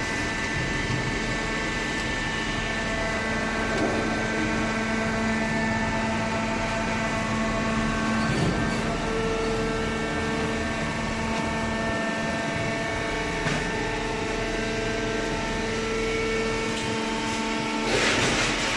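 Hydraulic baler machinery running steadily with several humming tones that shift slightly over time, and a short noisy hiss near the end.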